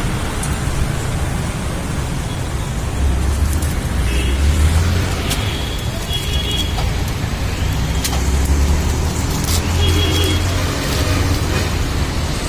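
Street traffic with a steady low rumble, swelling twice as vehicles pass close by, with a few sharp clicks and short high-pitched tones over it.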